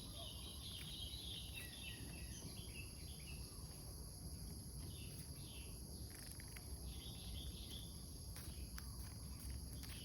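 Short, scattered call phrases from a cucak jenggot (grey-cheeked bulbul) in the first second or so and again about halfway and two-thirds through. Behind it is a steady high insect trilling, crickets or cicadas, and a low rumble.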